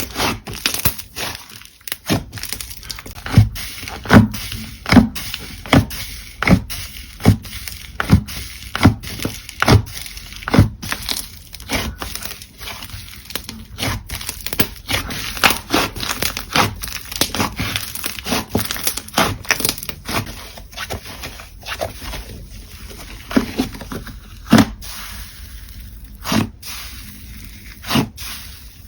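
Slime being handled and pressed by hand, giving a steady run of sharp clicks, pops and crackles, roughly one or two a second.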